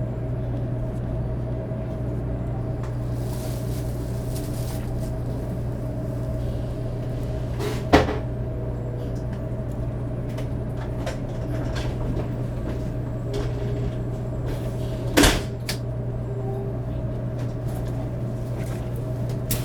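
Steady low hum inside a 500 series Shinkansen car, broken by two sharp knocks about 8 seconds and 15 seconds in.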